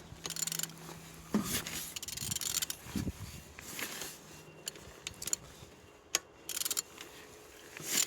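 Opel Z18XE 1.8-litre four-cylinder petrol engine being turned over by hand, giving a series of irregular mechanical clicks and scrapes with short pauses between them. It turns freely, a sign the used engine is not seized.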